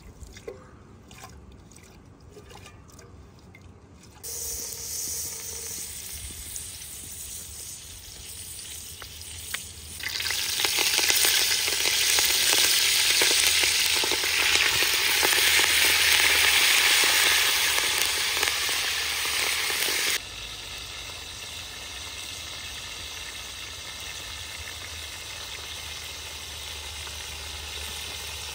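Food frying in hot oil. A few light knocks come first, then sizzling starts about four seconds in and grows much louder and crackly for about ten seconds. It then drops suddenly to a softer, steady sizzle.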